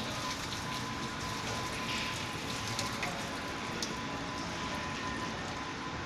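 Steady background hiss with a thin, steady high tone running under it and a few faint light ticks.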